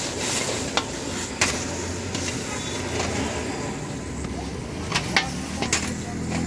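Chicken sizzling in hot oil in a wok with a steady hiss, stirred with a long metal ladle that clinks sharply against the pan a few times, twice about a second in and three times near the end.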